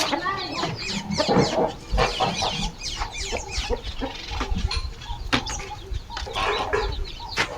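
Chickens clucking and squawking in quick, repeated short calls.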